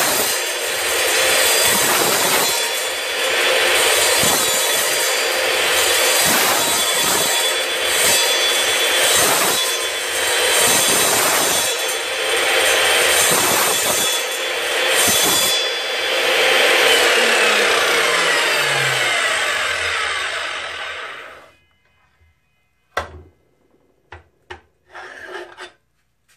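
Evolution Rage3 10-inch sliding miter saw running and cutting through a workpiece, a loud grinding that swells and dips about once a second. Its pitch falls over the last few seconds as the motor winds down, and the sound stops about 21 seconds in, followed by a few light knocks.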